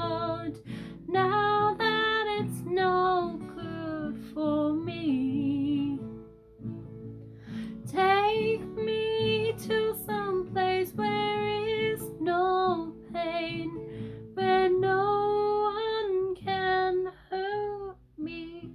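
A woman singing a slow ballad over acoustic guitar, holding long notes with vibrato.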